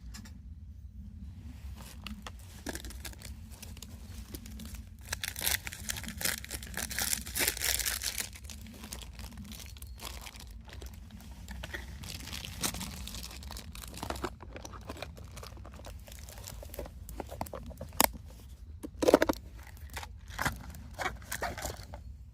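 Plastic packaging crinkling and tearing as it is handled and opened, with scattered small clicks and a few sharper knocks about three-quarters of the way through.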